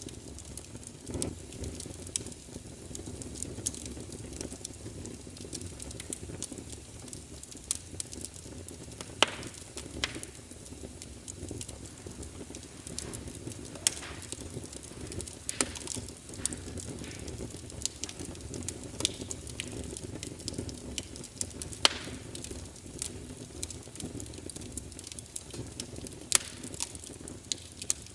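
Wood fire burning in a fireplace: a steady low rumble of flames with frequent crackles and sharp pops, a few of them louder snaps.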